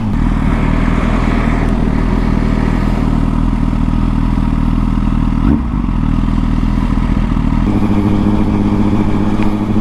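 Honda Fireblade's inline-four engine running under way as the bike is ridden at a steady pace. There is a brief break in the note about five and a half seconds in, and the engine note shifts to a different pitch near the end.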